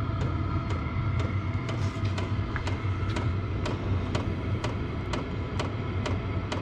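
Chinese diesel air heater running: a steady low hum from its combustion blower with a faint fan whine, and the fuel dosing pump ticking about twice a second.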